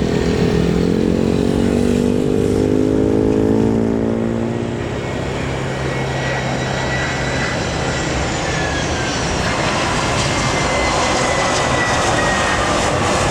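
Jet airliner engines passing close by, a loud roar with thin high whines that slowly fall in pitch through the second half. A lower engine tone slides down and fades out in the first few seconds.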